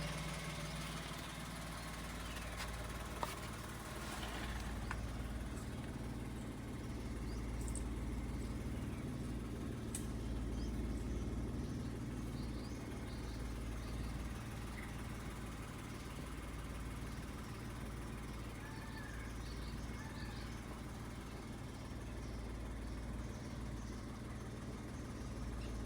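A car's engine running at a steady low rumble, with faint bird chirps now and then.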